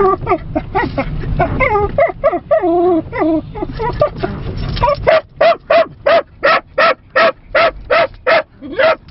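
A small dog yipping and whining excitedly over low car road noise, then from about halfway through barking rapidly and evenly, about three barks a second.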